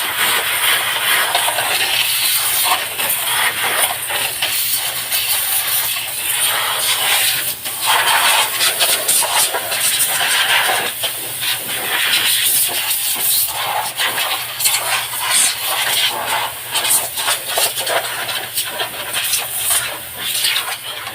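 Pressurised water spray hissing steadily as a split-type air conditioner is washed, with a faint steady hum underneath.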